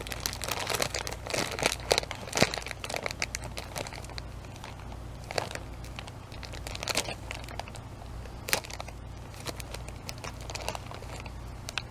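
A plastic bread bag crinkling and crackling in irregular bursts as it is handled and pulled at while someone tries to open it.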